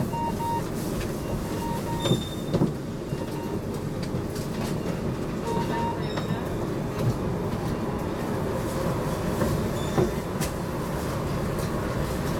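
HTM GTL8 articulated tram running along its track, heard from inside the car: a steady rumble of wheels on rail with several sharp knocks over the rails and a few short high beeps.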